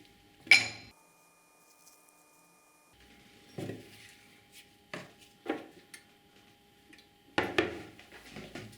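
Hard metal parts or tools clinking and knocking as they are handled on a workbench: one sharp clink about half a second in, the loudest, then a few scattered knocks and a short run of clatter near the end.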